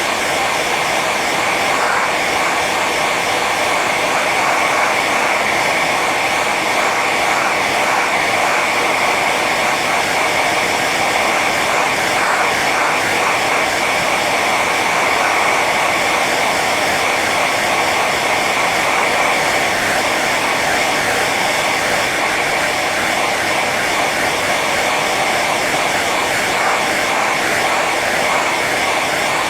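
Hair dryer running steadily on its high setting: an even rush of blown air with a constant whine.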